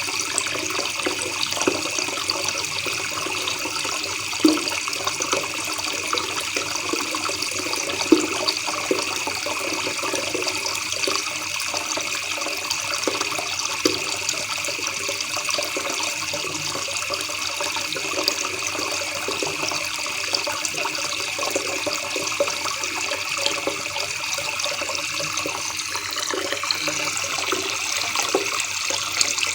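River water babbling steadily over rocks, an even, unbroken rush.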